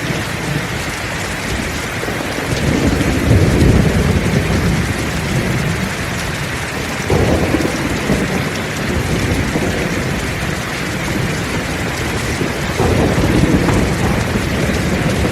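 Heavy rain falling steadily, with thunder rumbling low three times: about three seconds in, again starting suddenly about seven seconds in, and near the end.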